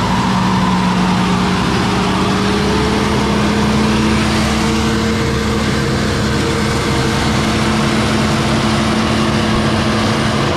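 Off-road 4x4's engine running under load as the vehicle backs up in reverse, its note rising slowly and steadily.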